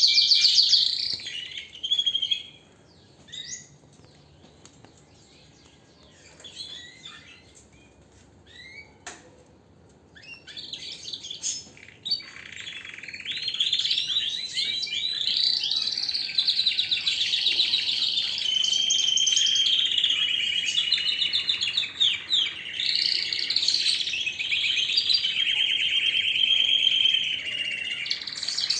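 Domestic canary singing. A short burst of song opens, then a stretch of scattered short chirps with a single sharp click about nine seconds in, and from about twelve seconds in a long unbroken song of fast trills and rolls.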